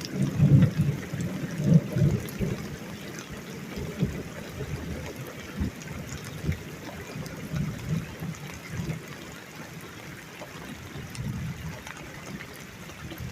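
Thunder rolling after a close lightning strike, loudest in the first couple of seconds and then fading in irregular rumbles, over steady rain and trickling water.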